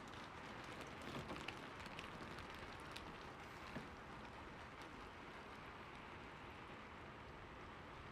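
Steady rain falling, with scattered drops ticking on a surface, a few of them louder between about one and four seconds in.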